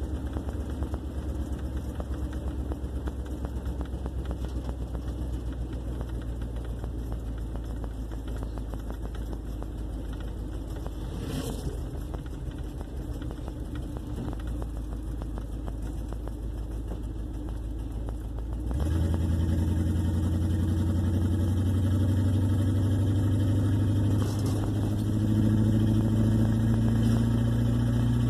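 1958 Plymouth Suburban's engine running steadily while driving; about two-thirds of the way through it suddenly gets louder and its pitch rises as it accelerates, climbing again near the end.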